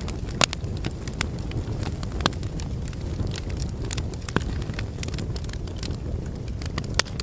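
Logs burning in a fireplace: a steady low rumble of flame under irregular sharp crackles and pops. The louder pops come about half a second in, a little after two seconds, and near the end.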